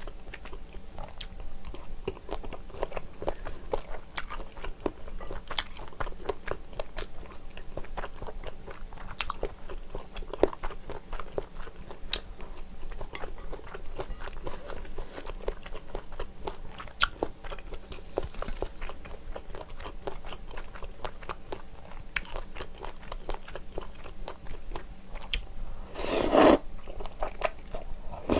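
Close-miked eating of spicy tteokbokki with Vienna sausages and flat glass noodles: chewing and biting with many small wet mouth clicks, and one louder rush of noise near the end.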